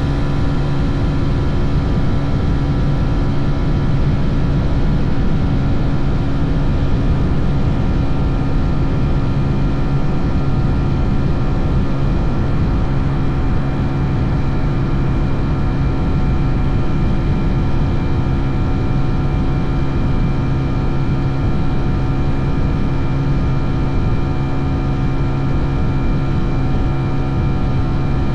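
Motorcycle engine running at a steady speed on the move, one unchanging drone with no gear changes, over a constant low rumble of wind and road noise.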